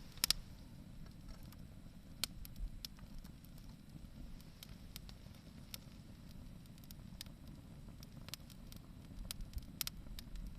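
Wood fire crackling: irregular sharp pops, with a loud double pop just after the start and a flurry of pops near the end, over a low steady rumble.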